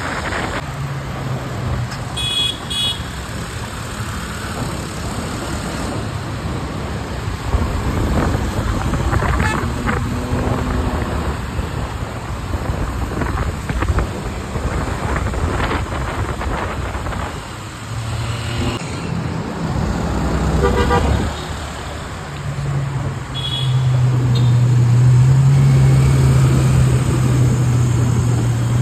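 Ferrari 812 Superfast's V12 engine running in city traffic, with a few short horn toots from the surrounding traffic. Its engine note is loud and steady over the last several seconds.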